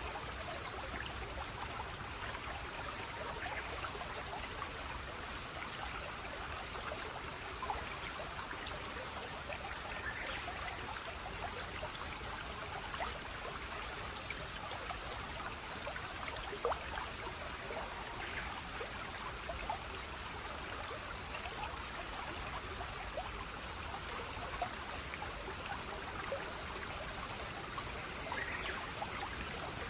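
Running water of a small stream trickling steadily over stones, with scattered small splashes and droplet ticks.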